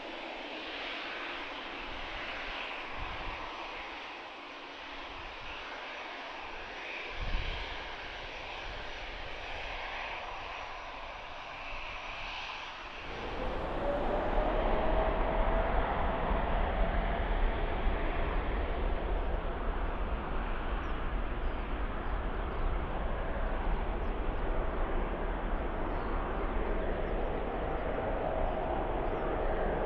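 Jet airliner engines: a steady distant hiss for the first half, with a short thump partway through. About halfway in, the sound jumps much louder, with a deep rumble and a whine that rises and then holds steady, as with engines spooling up to takeoff thrust.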